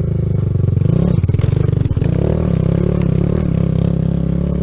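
Kawasaki Z125's single-cylinder engine running under load while ridden off-road, revving up about a second in. A few sharp clattering knocks come between one and two seconds in.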